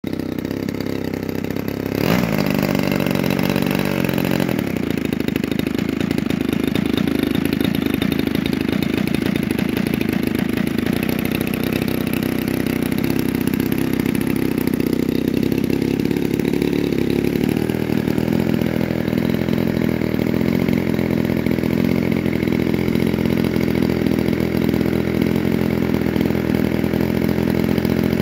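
DLE 35RA single-cylinder two-stroke gasoline model-aircraft engine running on the test stand, turning an 18x10 Xoar propeller. It speeds up about two seconds in, then holds a steady speed with small shifts in pitch.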